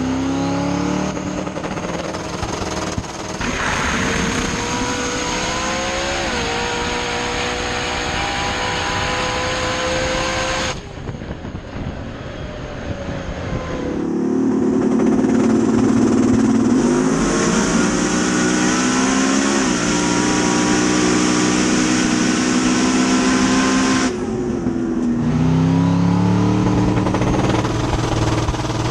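Drag race car engine running loud and steady, its pitch stepping up and down a few times, cut off abruptly twice.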